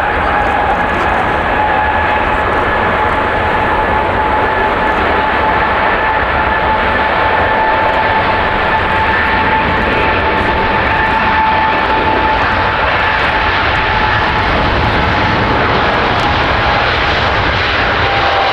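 Jet airliner engines running loud and steady: a dense rush with a high whine held throughout.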